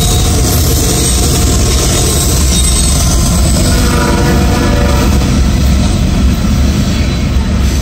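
CSX freight train passing close by, loud and steady: the trailing locomotive goes past at the start, then a line of covered hopper cars rolls by, steel wheels running on the rails.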